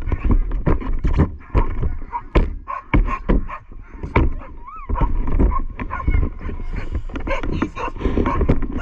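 Dogs whining and yipping, with many short knocks and rattles and a brief rising-and-falling whine about five seconds in.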